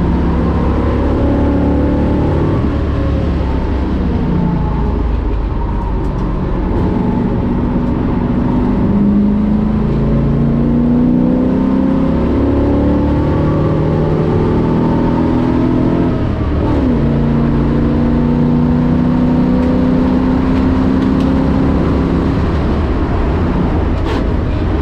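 1965 Ford Mustang race car's V8 engine pulling hard on track, its revs climbing steadily, falling sharply at a gear change about two-thirds of the way through, then climbing again.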